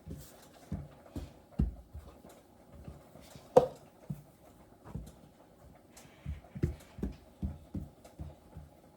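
Knife or pizza cutter cutting rolled dumpling dough on a board: about a dozen irregular knocks and taps, with one louder knock that rings briefly about three and a half seconds in.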